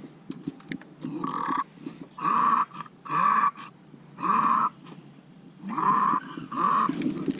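Bulldog making six short, rough noises, each under half a second, spaced roughly a second apart.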